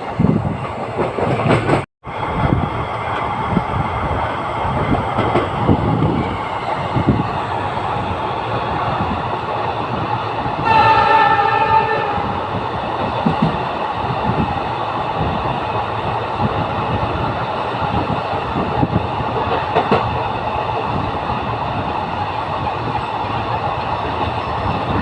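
Express train running, heard from inside a passenger coach: a steady rumble with the wheels clacking over the rail joints. The horn sounds once, about a second long, roughly halfway through. The sound cuts out for an instant about two seconds in.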